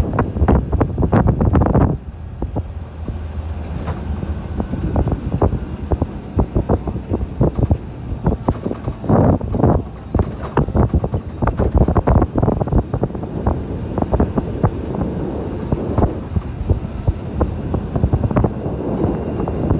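Wind buffeting the microphone: a loud, irregular low rumble with uneven gusty thumps.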